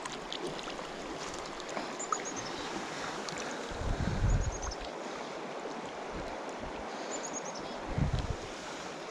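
Steady rush of a flowing river. Wind buffets the microphone with low thumps about four and eight seconds in, and a short, high, falling chirp sounds three times at even spacing.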